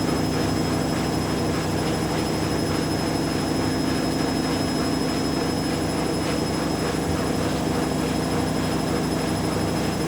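Two washing machines, a Hoover Dynamic Next DXA610IW3 and a Whirlpool AWM1850, running their spin cycles together: a steady motor hum with a faint high whine.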